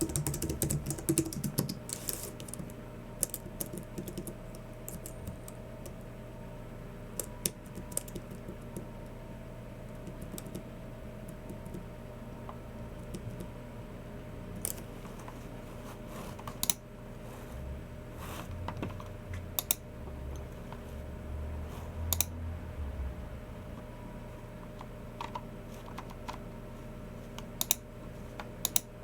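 Typing on a Logitech MX Keys Mini low-profile keyboard: a quick run of keystrokes in the first few seconds, then scattered single key and click sounds with pauses between them. A steady low hum runs underneath, with a soft low rumble about two-thirds of the way through.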